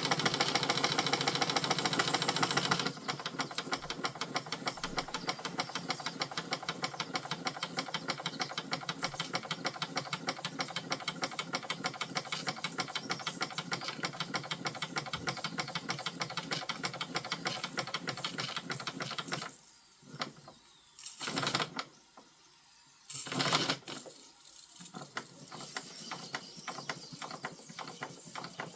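Model marine steam engine running with a rapid, even mechanical chuffing and clatter, louder for the first few seconds. About two-thirds of the way in the rhythm stops, a few short bursts of noise follow, and then it resumes faintly.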